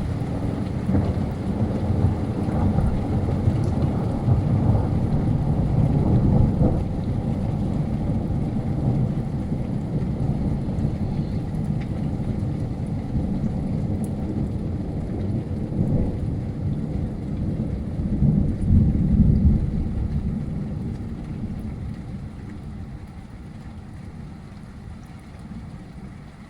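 Rolling thunder from a lightning strike about twelve seconds earlier: a long, low rumble that swells twice, then dies away, over steady rain.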